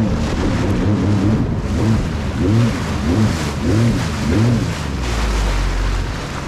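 Jet ski engine repeatedly revving up and falling back, swooping in pitch about once or twice a second as the craft bounces over choppy ocean waves. Near the end it settles into a steadier low drone.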